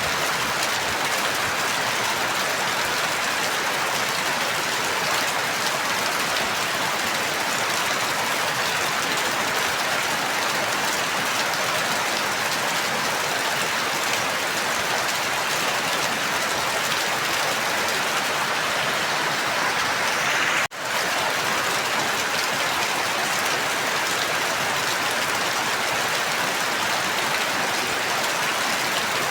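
Steady, dense rainfall with an even hiss and no breaks in the drops. About two-thirds of the way through, the sound cuts out for an instant and comes straight back.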